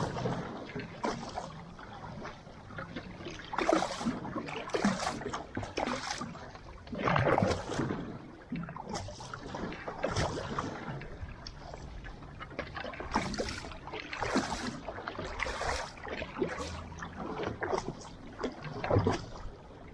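Water splashing and rushing around a paddled outrigger canoe, coming in irregular surges every second or so, over a steady low rush of water and wind.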